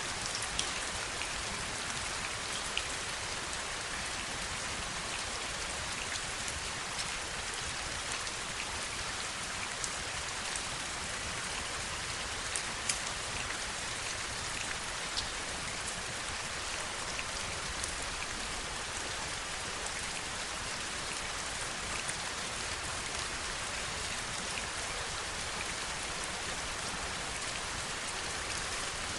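Heavy rain falling steadily, an even hiss with scattered sharp drops ticking through it.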